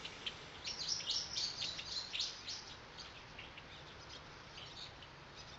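Small birds chirping in quick, short high notes, some sweeping down in pitch. The calls are busiest in the first half and grow sparser toward the end, over a faint steady background.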